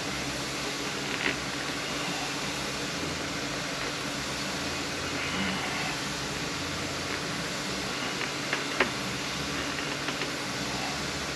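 Steady whirring noise like a running fan, with a few short sharp clicks, once about a second in and a few more near the end.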